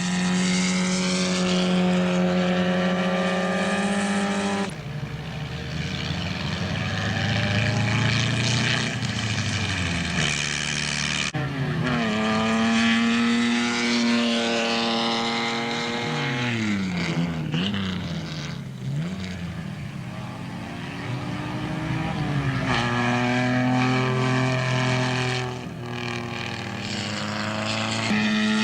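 Racing sports car engines running hard, their pitch climbing and dropping again and again through gear changes and cars passing. The sound changes abruptly twice, about five and about eleven seconds in.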